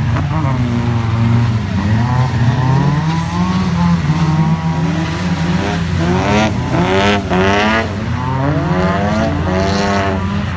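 Car engines revving up and down again and again as cars slide around a wet skid pan, over a steady low engine hum. The revving is loudest a little past the middle.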